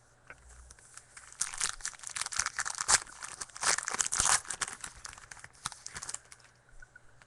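A trading-card pack wrapper being torn open and crinkled, a few seconds of dense crackling and tearing that is loudest in the middle.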